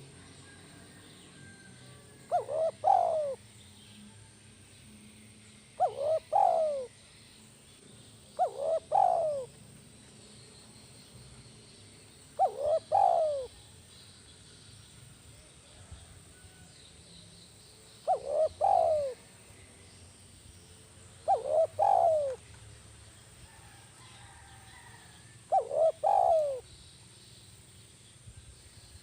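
Spotted dove (tekukur) cooing: seven short phrases of a few notes each, about a second long and repeated every three to six seconds. The phrases are of the 'kuk 1' coo type that dove keepers train to.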